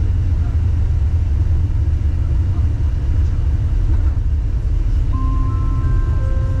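Wuppertal Schwebebahn suspension railway car running: a steady low rumble. About five seconds in, several steady electric whining tones at different pitches come in one after another.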